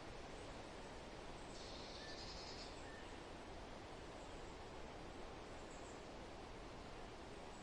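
Faint forest ambience: a steady hiss of wind and rustling leaves, with a bird's high trill lasting about a second near the start and a couple of brief chirps just after.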